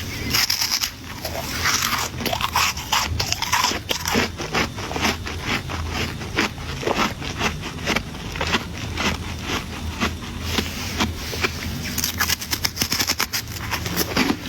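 Ice crunching and crackling: a steady run of sharp cracks mixed with scraping.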